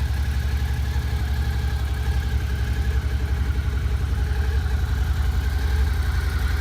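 2013 Suzuki Gladius 650's V-twin engine idling steadily through its stock exhaust, a low, even pulsing.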